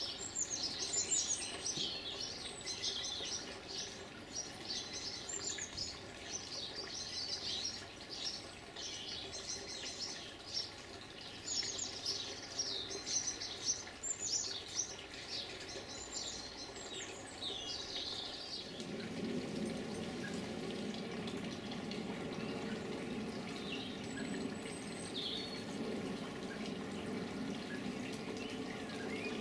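Small birds chirping, many short high calls in quick succession for about the first seventeen seconds. From about eighteen seconds in, a steady low rushing noise takes over and carries on.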